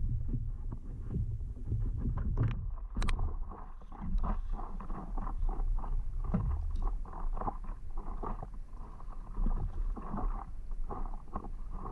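Water splashing and sloshing around a stand-up paddleboard in short, irregular bursts, over a low rumble of wind on the microphone.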